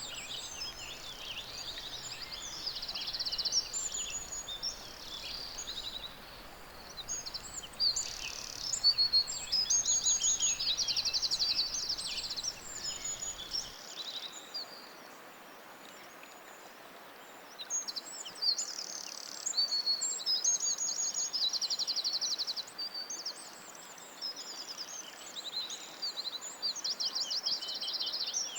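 Several songbirds singing over one another: rapid high trills and short chirps and whistles, layered over a faint steady background hiss.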